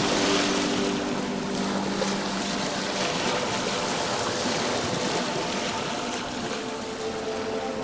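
Ocean surf washing steadily. Soft held music notes fade out in the first few seconds, and a new held note comes in near the end.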